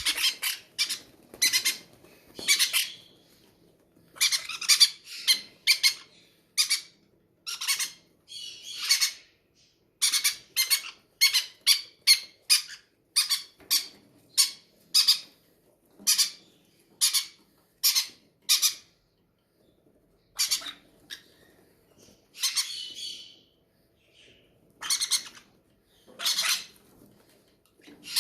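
Hungry baby parrots giving harsh, repeated begging squawks: short calls one after another, with a few brief pauses.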